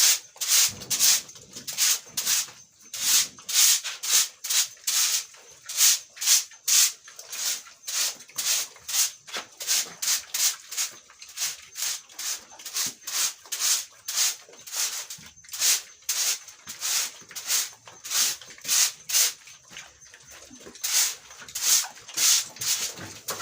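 Broom sweeping a dry pen floor in quick, regular brushing strokes, about two a second.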